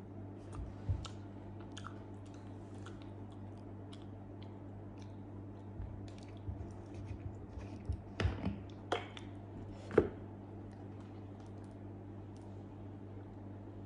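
Close-up chewing and wet mouth smacks of a person eating soft grilled eggplant, with a run of louder smacks about eight to ten seconds in, over a steady low hum.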